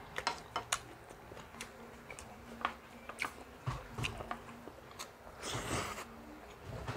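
A person biting and chewing food close to the microphone, with irregular small crunches and clicks, and a brief rustle about five and a half seconds in.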